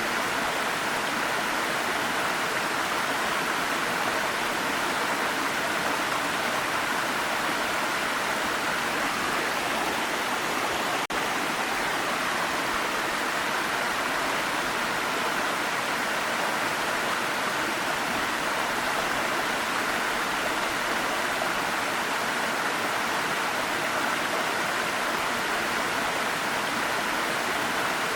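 Waterfall: a steady rush of falling water, with a momentary dip about eleven seconds in.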